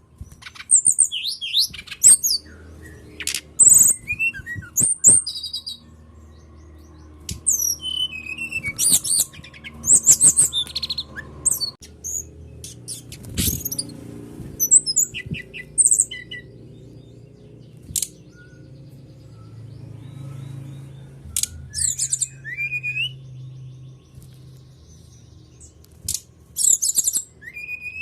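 Brown-chested jungle flycatcher song used as a lure: bursts of sharp chirps, short whistles and quick sweeping notes in rapid clusters, separated by short pauses, over a faint low hum.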